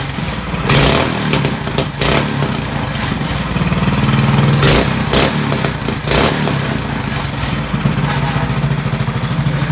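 Straight-piped small engine of a drift trike running while it warms up, a little warm but not fully. The revs come up for a moment in the middle, then it settles into an even idle, with a few sharp knocks along the way.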